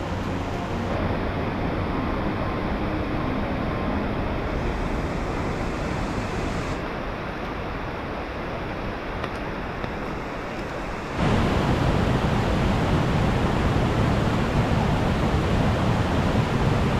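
Steady rushing of running water and falling rain from a rain-swollen mountain stream. It becomes suddenly louder and deeper about eleven seconds in.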